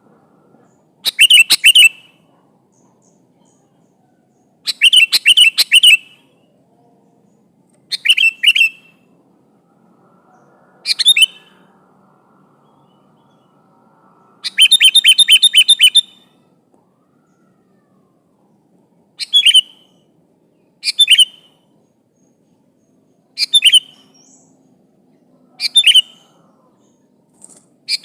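Sooty-headed bulbul (kutilang) singing: short bursts of quick, repeated chirpy notes, about one every two to three seconds. The longest burst, near the middle, lasts about a second and a half.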